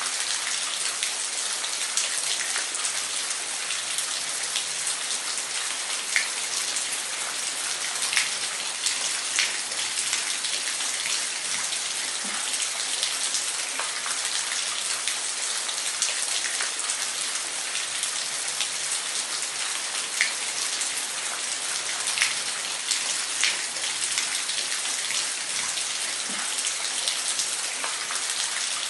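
Waterfall: a steady rush of falling water, with scattered sharp splashes and drips standing out now and then.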